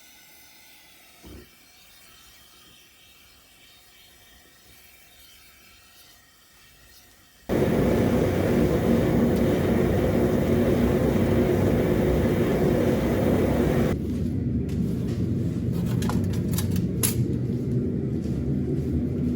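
Melting furnace burner running with a steady loud roar that starts abruptly after a faint stretch broken by a single thump; a few sharp clicks sound near the end.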